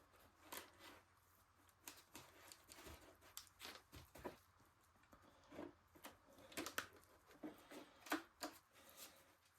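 Faint, irregular crackles and soft squishes of hands pressing wet Sculptamold, a papier-mâché-like paste, onto the screen of a model mountain.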